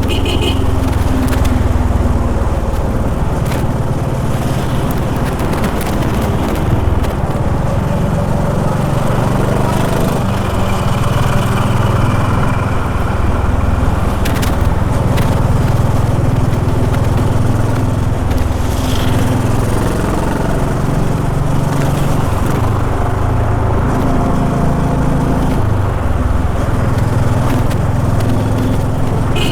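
Honda H'ness CB350's single-cylinder engine running steadily under way in city traffic, with wind and road noise.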